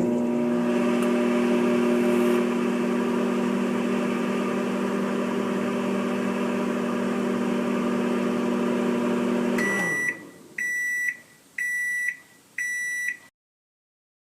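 Microwave oven running with a steady hum that winds down after about ten seconds, then four high beeps about a second apart to signal the cooking cycle is done.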